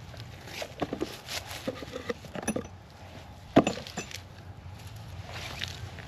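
Metal tools and parts clinking and knocking as they are handled at the wheel hub, with one sharp knock about three and a half seconds in.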